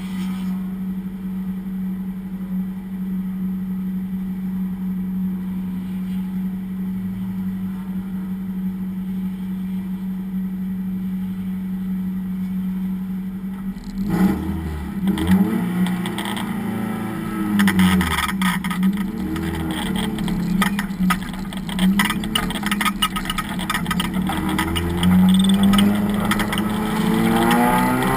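Race car engine holding one steady note for about fourteen seconds, then revving up and down again and again, and climbing in pitch near the end as it accelerates.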